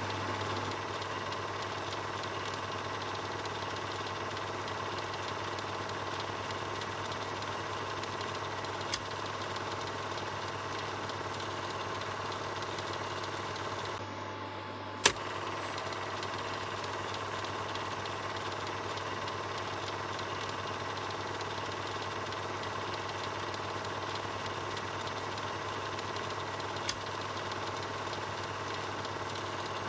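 Film projector running: a steady mechanical whir and rattle with a low hum. It is broken by a few sharp clicks, the loudest about halfway through, right after a brief drop in the sound.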